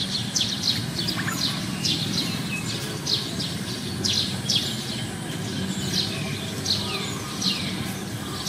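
A bird chirping over and over: short high calls that fall in pitch, about two a second, over a steady low background rumble.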